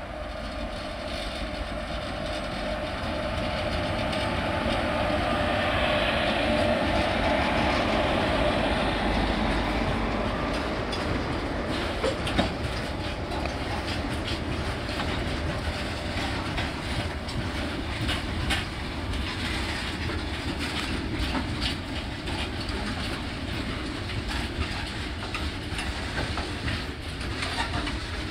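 WAG-7 electric freight locomotive passing close, its steady hum loudest a few seconds in. A long rake of covered goods wagons follows, rolling by with repeated clicks of wheels over rail joints.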